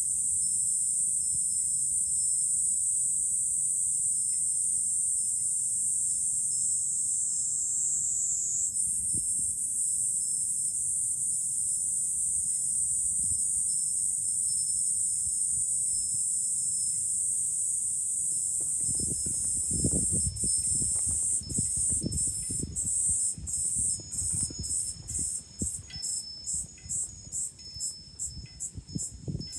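Cicadas singing in a loud, steady high-pitched drone that, about twenty seconds in, breaks up into regular pulses about two a second and begins to fade. Gusts of wind rumble on the microphone over the second half.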